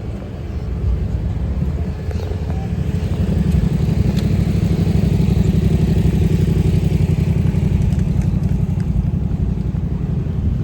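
A motor vehicle engine running close by, growing louder about three seconds in and holding there, with a rapid low pulsing from its firing.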